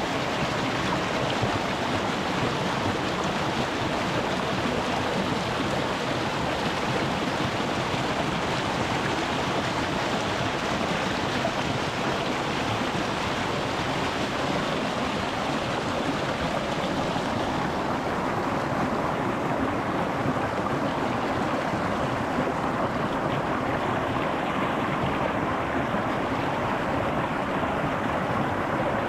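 Small rocky mountain stream flowing over stones, a steady rush of running water. The highest hiss softens about two-thirds of the way through.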